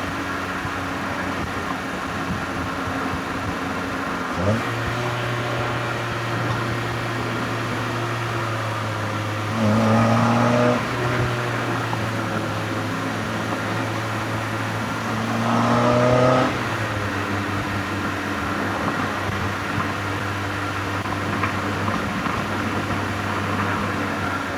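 NB Mazda MX-5 Miata's four-cylinder engine and exhaust heard from the driver's seat, running steadily under light throttle. Twice, about ten and sixteen seconds in, it gets louder with a briefly rising pitch under acceleration, then settles back.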